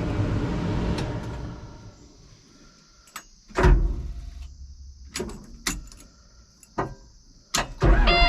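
Inside a dozer cab: a loud running noise dies away over the first couple of seconds, then comes a string of sharp clicks and knocks. Near the end a loud low engine rumble starts, with a steady warning tone over it.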